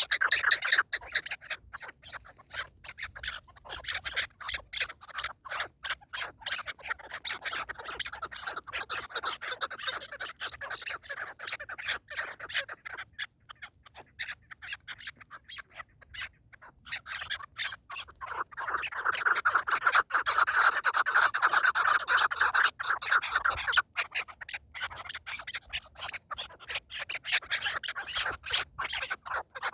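Partridges calling, a fast run of short repeated notes. It drops away for a few seconds in the middle and comes back louder.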